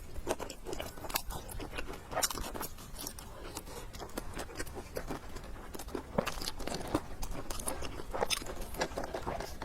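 Close-miked chewing and biting of food, an irregular run of sharp clicks and smacks.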